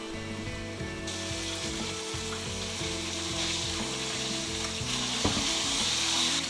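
Coated chicken breast frying in hot oil: a hissing sizzle that starts suddenly about a second in and grows louder.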